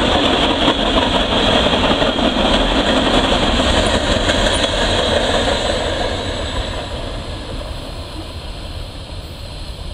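Freight train cars rolling past on the track, a steady rumble and rattle of wheels on rail that fades over the last few seconds as the train moves off.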